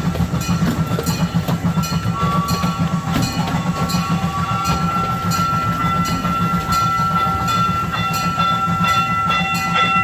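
Amusement-park ride train running along its track: a steady low rumble with rapid clicking of the wheels over the rail joints. A high steady whine sets in about four seconds in and grows stronger toward the end.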